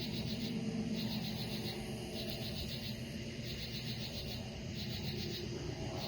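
Night insects chirping in short, high, pulsed bursts that repeat one to two times a second, over a steady low hum.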